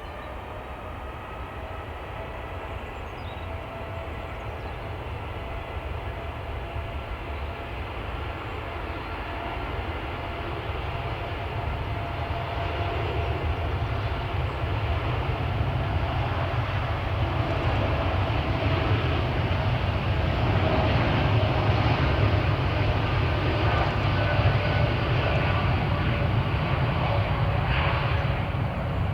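Jet airliner engines with a steady whine over a low rumble, growing steadily louder as the aircraft approaches.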